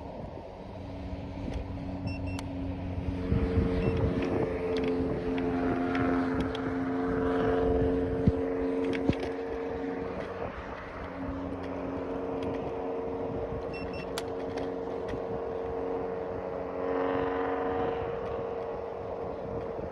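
Aovo Pro ES80 electric kick scooter's hub motor whining steadily under way, over wind and road rumble with scattered rattles and clicks from the deck and stem. The whine drops out for about a second near the middle, then comes back.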